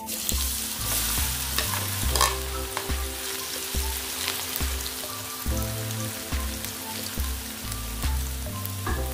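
Cubes of tempeh sliding into hot oil in a non-stick wok, the oil sizzling hard at once as they start to deep-fry, with a few clacks of a spatula stirring them. Quiet background music runs underneath.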